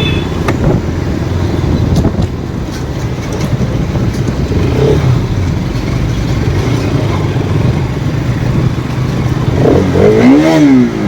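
Motorcycle engine running steadily on the move, with wind noise rushing over the microphone. Near the end a tone briefly rises and falls in pitch.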